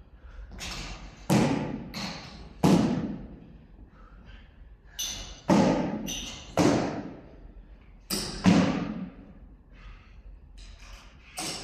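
Heavy thuds of gym equipment striking the floor, about eight impacts at irregular spacing, some in close pairs, each ringing out briefly in the echoing hall.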